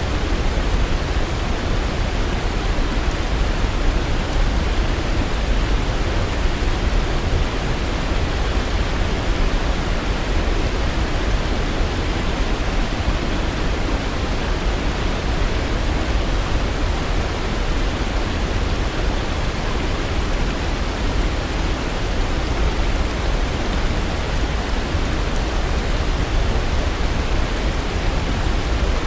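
Waterfall: falling water rushing steadily, strongest in the deep low end, with no birdsong or other sounds over it.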